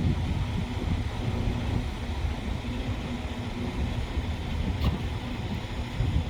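Steady low rumble of vehicles with wind buffeting the microphone, and a single short click about five seconds in.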